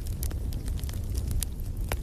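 Wood fire crackling in a fireplace: a stream of small crackles, with a few sharper pops, over a low steady rumble.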